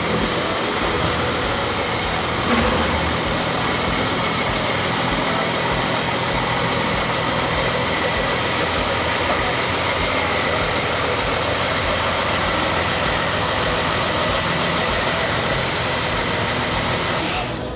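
Steady motor vehicle noise, a car's engine running with road and wind noise, holding an even level and stopping abruptly near the end.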